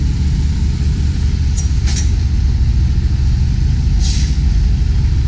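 Semi tractor-trailer's diesel engine running steadily as the truck pulls forward, heard from inside the cab. Two short hisses come through about two and four seconds in.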